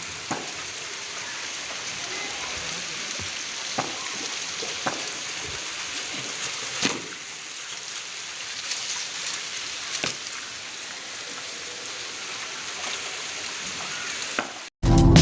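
Heavy rain falling steadily, a dense even hiss, with a few scattered sharp taps or knocks. Near the end it cuts off abruptly and loud electronic music begins.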